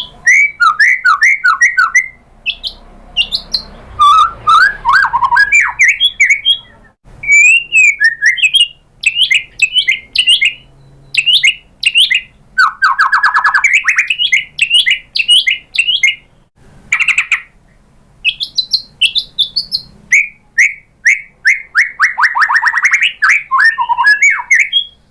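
White-rumped shama (murai batu) singing in loud, varied phrases: fast runs of repeated notes, trills and whistled glides, broken by short pauses.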